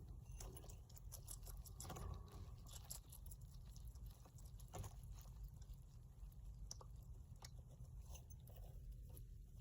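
Pet hedgehog eating, faint irregular crunchy chewing clicks.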